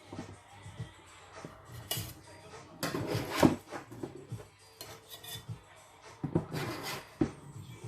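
Cutlery clinking and scraping against a pan and plates as food is served, with irregular knocks, the loudest about halfway through.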